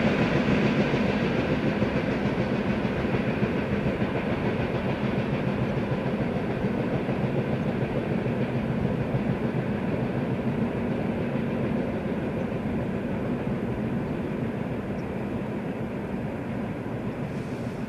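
Long freight train of wagons behind a VL10K electric locomotive rolling past, a steady rumble of wheels on the rails that slowly fades as it draws away.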